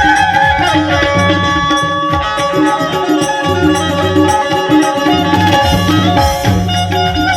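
Instrumental music: a banjo playing a melody of held, ringing notes over a steady, rhythmic drum beat.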